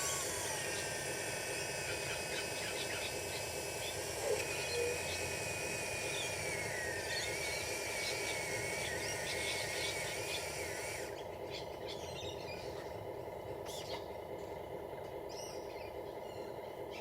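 Small electric motors of radio-controlled construction models whining steadily, the higher whine wavering in pitch as they work and cutting off about two-thirds of the way through while a lower hum carries on.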